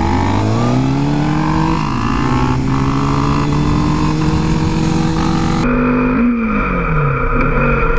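Suzuki GSX-R 1000 inline-four engine under acceleration: its pitch rises over the first second and then holds, before falling off about six seconds in as the throttle is rolled back.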